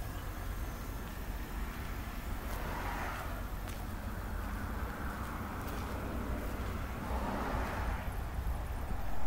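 2008 Volvo S40 2.4i's inline five-cylinder engine idling steadily, heard from outside the car as a low rumble. Two swells of rushing noise rise and fade about three and seven seconds in.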